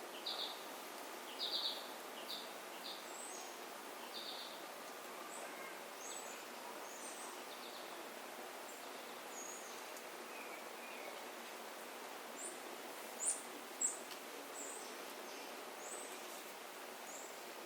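Small songbirds calling: short, sharp chip notes repeated in little bursts, and thin, very high notes scattered between them, with two louder calls about two-thirds of the way through, over a steady background hiss.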